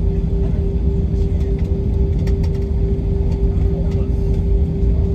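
Airbus A321 cabin noise: a deep, steady rumble of jet engines and airflow with a hum held at one pitch, and a few faint ticks.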